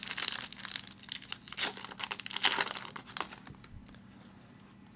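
A 2011-12 Upper Deck SP Authentic hockey card pack wrapper being torn open and crinkled by hand: a run of crackling rustles that dies away after about three seconds.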